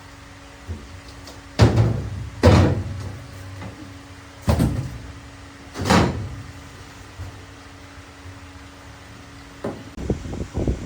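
Four heavy knocks or bangs, each ringing briefly, about a second or two apart, over a steady faint hum; a quick run of lighter knocks near the end.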